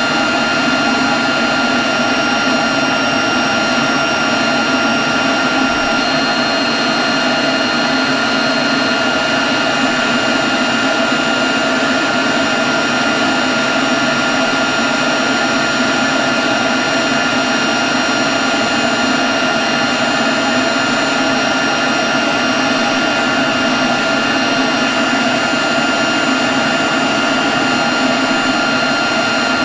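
Leaf blower running steadily at constant speed: a loud rush of air over its motor, with a steady high whine.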